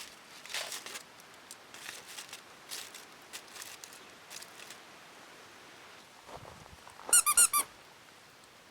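Four quick, high-pitched squeaky chirps in a row near the end, each bending up and down in pitch. Earlier come faint scattered ticks and rustles.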